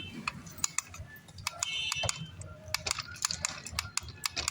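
Rapid, irregular plastic clicks and taps from a toy car being handled, with a short burst of high electronic tones about two seconds in.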